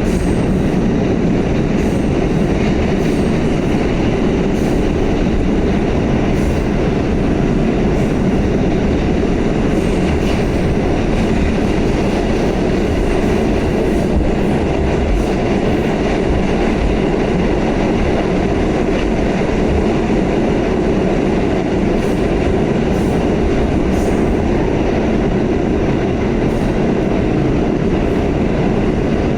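Pullman-Standard R46 subway train running steadily at speed: a continuous loud rumble of steel wheels on rail, with sharp clicks now and then as the wheels cross rail joints.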